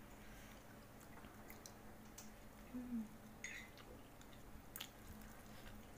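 Faint chewing of instant noodles, with a few soft clicks and a brief low hum about halfway through.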